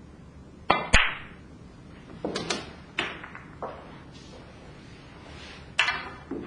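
Snooker shot at a half-ball contact: a sharp click of the cue tip on the cue ball, then at once the louder click of the cue ball striking a red, about a second in. Further knocks of the balls follow, and another sharp click comes near the end.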